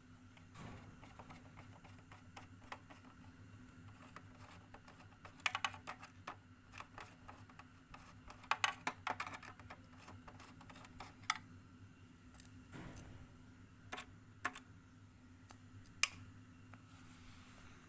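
Irregular small clicks and taps of hands and tools working on a portable radio's plastic case and parts, in clusters with single sharper clicks later on, over a faint steady hum.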